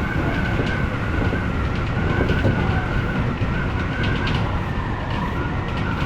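Odakyu electric commuter train running at speed, heard from inside the front car: a steady low rumble of wheels on track, with a constant high whine and scattered light clicks.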